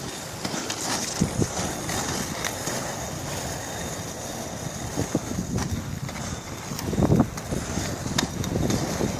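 Wind buffeting the microphone, with scattered light knocks and a louder thump about seven seconds in.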